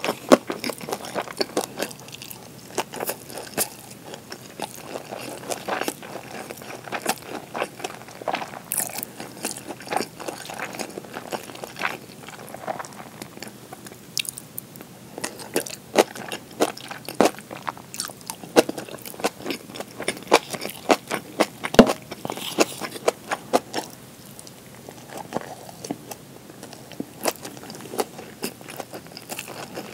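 Close-miked eating sounds: a person chewing tuna kimchi and rice, a dense, irregular run of sharp wet clicks and crisp bites.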